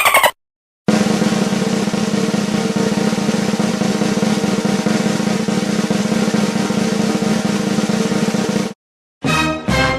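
Snare drum roll, a dense steady run of very fast strokes lasting about eight seconds and then stopping abruptly. A short, different sound effect follows near the end.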